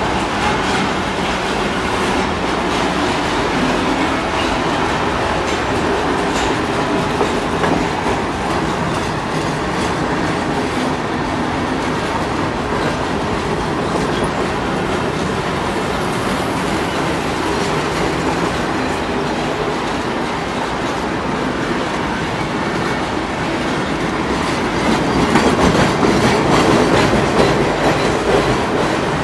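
Loaded freight wagons of a long train rolling past at close range: a steady rumble and clatter of steel wheels on the rails, growing louder about 25 seconds in.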